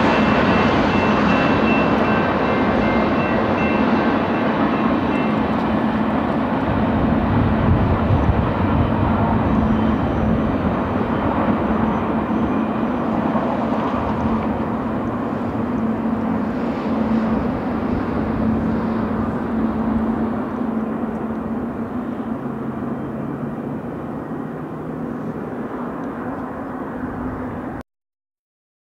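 Long double-stack intermodal freight train rolling by: a steady rumble of wheels on rail with a low hum, slowly fading as the cars draw away. The sound cuts off abruptly near the end.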